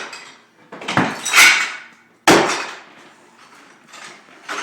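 Demolition hammer blows smashing interior wall material: three heavy impacts, two close together about a second in and a sharp crash a little after two seconds that dies away.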